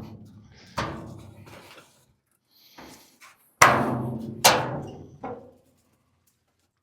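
Four sharp clanks, each with a short ringing tail, the loudest about three and a half seconds in, and lighter knocks between them.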